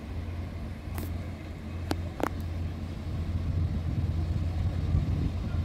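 Two coupled HLB regional trainsets running through, a steady low hum that grows louder over the second half, with a few sharp clicks about one to two seconds in.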